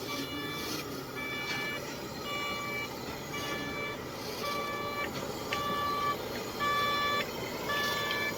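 Reversing alarm on a heavy machine beeping steadily, about one half-second beep a second, over a low running engine.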